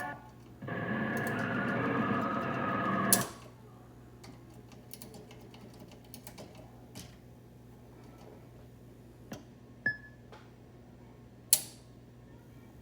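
High Speed pinball machine's sound board playing a synthesized electronic sound for about two and a half seconds, cut off abruptly with a click, after which only a steady hum from the amplifier remains, broken by a few sharp clicks, one with a short beep.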